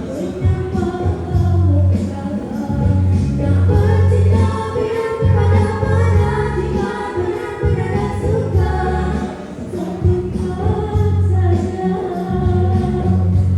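Young girls singing a Malay traditional-pop duet over a recorded backing track with a strong pulsing bass.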